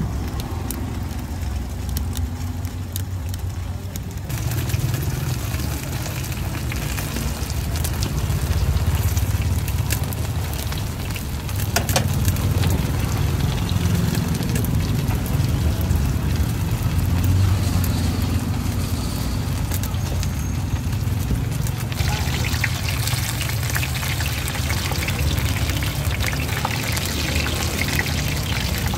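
Stuffed buns frying in oil on a large shallow pan, a steady sizzle over a low rumble of background noise; the sizzle gets brighter about three-quarters of the way through.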